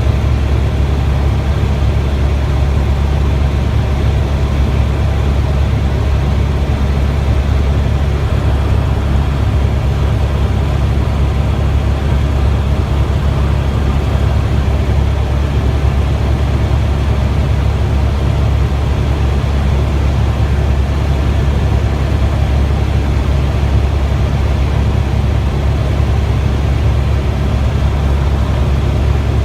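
Helicopter in flight heard from inside the cabin: a loud, steady low drone of rotor and engine.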